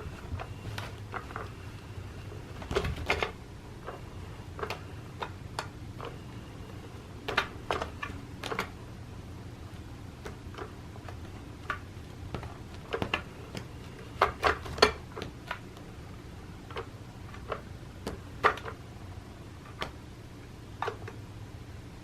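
Irregular sharp clicks and taps, some in quick clusters of two or three, over a low steady hum.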